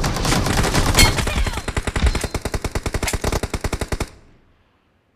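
Rapid automatic gunfire in a shooter video game: one long burst of many fast shots that cuts off about four seconds in.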